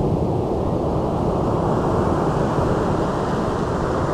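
Steady rush of ocean surf on the beach, with wind rumbling on the microphone.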